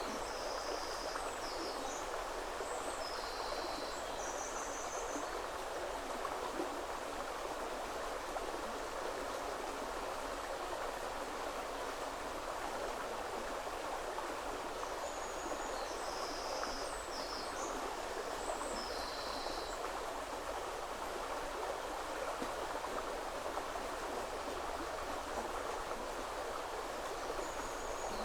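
River water flowing steadily. A songbird sings a short phrase of high notes at the start, again about halfway through, and once more at the end.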